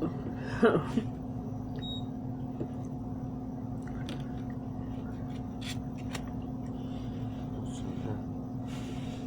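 Quiet eating at the table: a few sharp clicks and smacks of chewing and biting over a steady low hum, with a brief vocal sound about half a second in.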